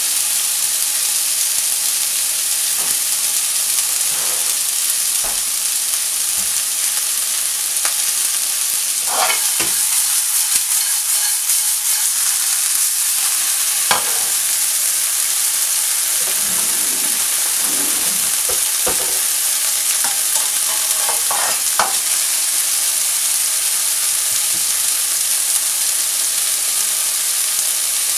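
Frozen mixed vegetables and diced meat sizzling in oil in a nonstick frying pan, a steady loud hiss as the frost cooks off. The pan is stirred and tossed, adding scattered scrapes and clatters of food and utensil against the pan, most of them through the middle stretch.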